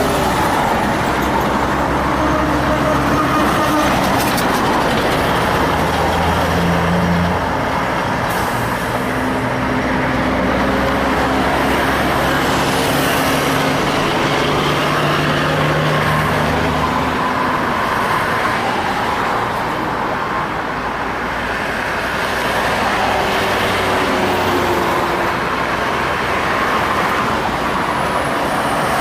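Diesel trucks running past in heavy traffic. The engine note holds steady for several seconds at a time and then drops to a new pitch, twice, about seven and seventeen seconds in.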